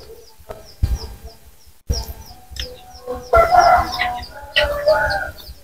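Small birds chirping in quick repeated notes, with a louder chicken call about three and a half seconds in.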